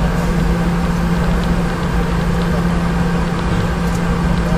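Steady cabin drone inside a Boeing 717-200, its tail-mounted Rolls-Royce BR715 turbofans running, with a constant low hum over the rushing noise.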